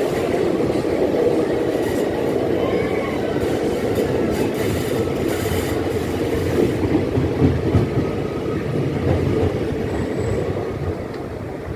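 Kirandul passenger train running on the rails, a steady rumble of wheels and carriages, with a faint brief wheel squeal about three seconds in.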